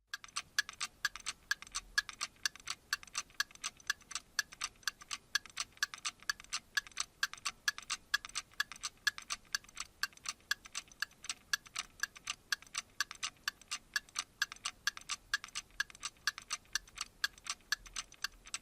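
Steady, rapid mechanical ticking, evenly spaced at about four ticks a second, like a clock.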